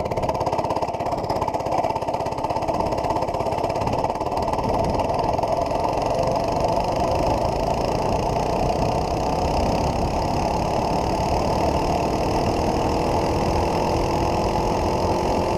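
80cc mini bike engine running steadily while riding, a continuous buzz whose pitch sags slightly over the last few seconds.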